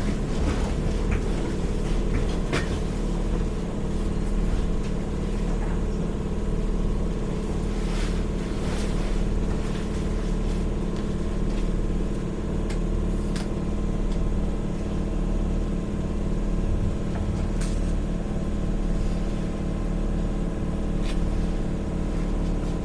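Inside a Seibu 101-series electric train car, a steady hum of several unchanging tones with a regular low pulsing drone from the car's equipment, and occasional faint clicks. The pitch does not rise or fall, typical of the train standing at a station rather than accelerating.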